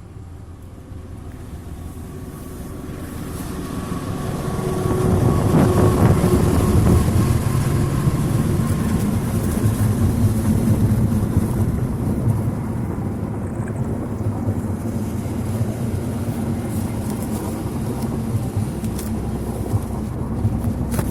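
A KAI CC206 diesel locomotive and its train running. The rumble grows louder over the first five seconds, with a faint whine near the start, then holds steady and loud.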